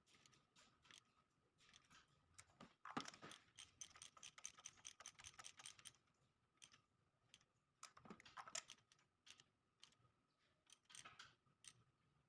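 Faint irregular clicks and scraping in short clusters, like small handling noises, over a faint steady high-pitched hum.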